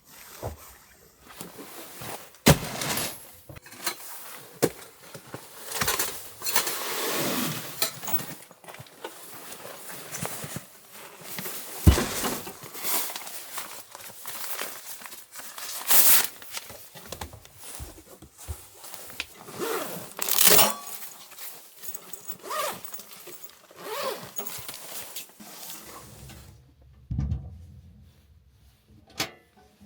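Irregular knocks, thuds and scraping of things being handled and moved about, with a few sharper knocks among them.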